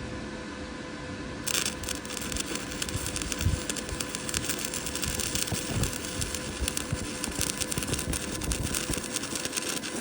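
Electric arc welding on a 120-volt welder: the arc strikes about one and a half seconds in and crackles steadily through a long weld, stopping at the end.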